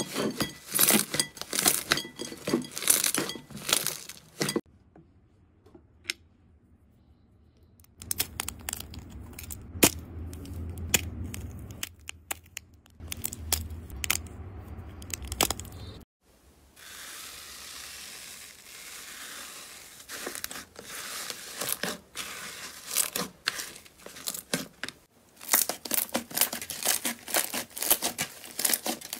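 Slime being pressed and poked by hand: dense crackling and popping clicks. The sound stops and starts abruptly several times, with a few near-quiet seconds early on and a stretch of low rumble with scattered clicks in the middle.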